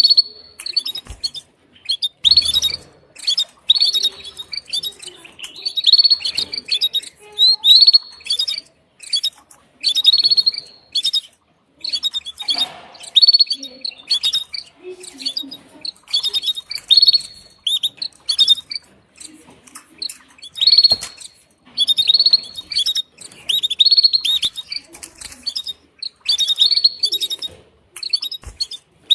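Female canary giving her repeated mating call to a male: short bursts of high chirps, about one burst a second.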